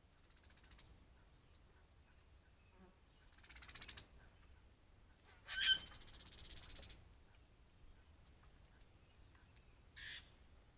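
Cowbirds and grackles calling: four bursts of high, buzzy, rattling calls, the loudest and longest lasting about a second and a half a little past the middle, and a short harsh call near the end.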